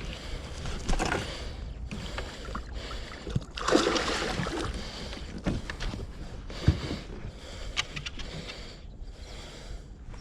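Water splashing and small knocks around a kayak while a hooked giant snakehead is being fought, with a louder splash about four seconds in.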